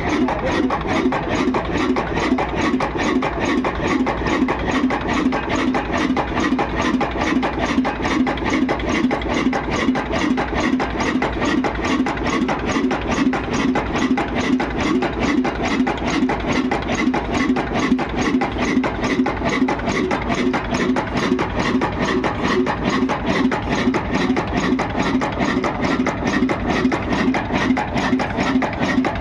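Old 20 HP Ruston Hornsby stationary diesel engine running at a steady speed, its exhaust and mechanism beating out an even, rapid rhythm.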